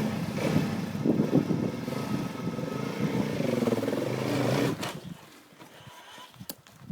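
Dirt bike engine revving up and down under load as the bike climbs a steep rocky slope. The engine sound drops away about five seconds in, leaving a few sharp knocks.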